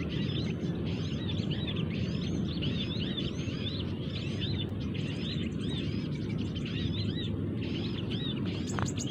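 Small birds chirping rapidly, short high chirps several times a second, over a steady low rumble. A single sharp click near the end.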